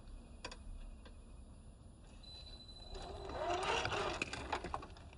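1/10-scale RC crawler driving over dirt and stones: a few scattered crunches and clicks from the tyres, then, about three seconds in, the electric motor whines up and back down as the tyres scrabble and crunch over the ground.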